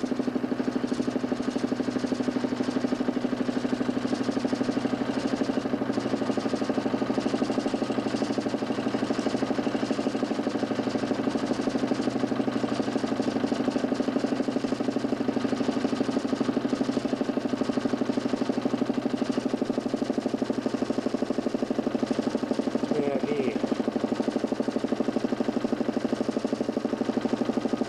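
DC motor spinning a 40 cm plywood Nipkow disc at speed: a steady hum with a fast, even flutter.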